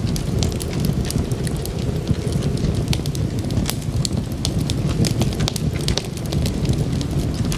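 Wood fire crackling, with frequent sharp, irregular pops and snaps over a steady low rumble of burning flames.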